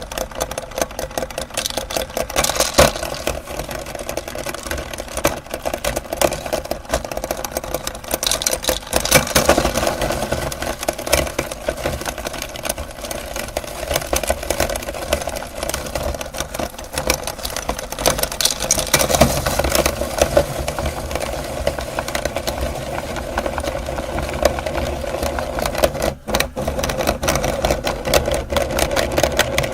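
Electric meat grinder running steadily as it grinds candy, its motor hum overlaid with a dense crunching crackle.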